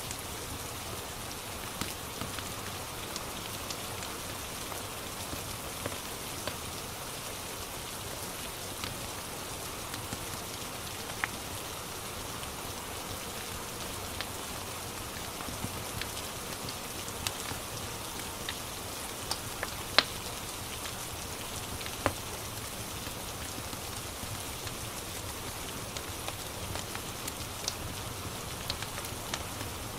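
Steady rain falling, with scattered sharp crackles from a log fire; the loudest pop comes about two-thirds of the way in.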